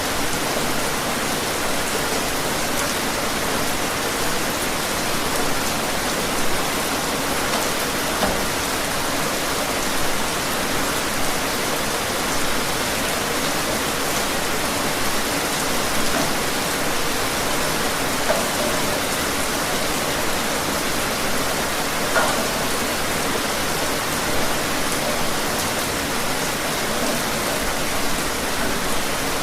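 Steady rain falling outdoors: a dense, even hiss with scattered individual drops ticking.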